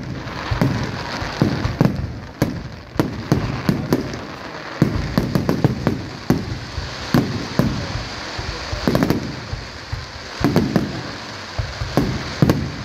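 Aerial fireworks shells bursting in a rapid barrage, with a boom every second or so over a continuous crackle of glittering stars.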